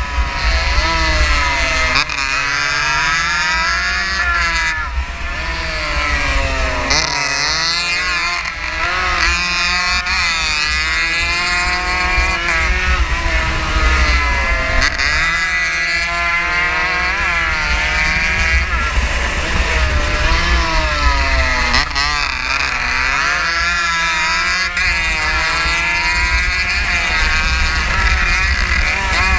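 A 115cc race motorcycle's engine at racing speed, heard from on board, its revs climbing and dropping back again and again through the corners and gear changes.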